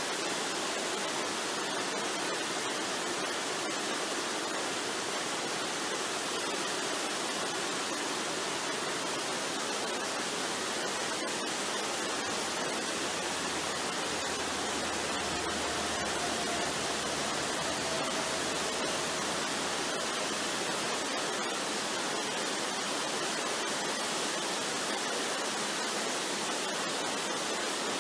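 Steady, even rush of a waterfall, with a faint, slightly falling tone heard for a few seconds about halfway through.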